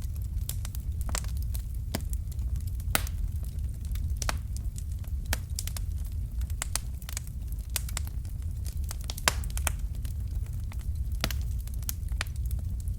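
Wood fire crackling: irregular sharp pops and snaps, a few louder ones, over a steady low rumble of the flames.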